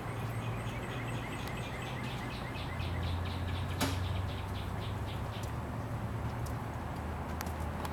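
A small bird chirping in a rapid series of short high notes, about five a second, for a few seconds over a steady low hum, with a single sharp click near the middle.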